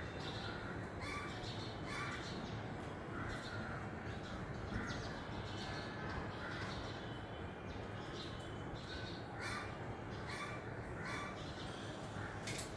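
A bird giving a series of short calls, roughly one a second with a pause of a couple of seconds in the middle, over a steady low background rumble.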